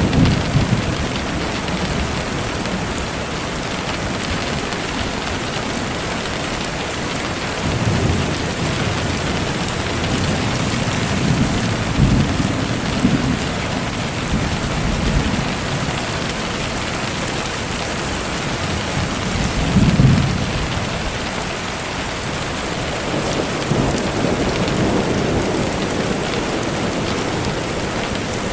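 Steady heavy rain falling, with low rumbles of thunder rolling in several times, the strongest about twenty seconds in.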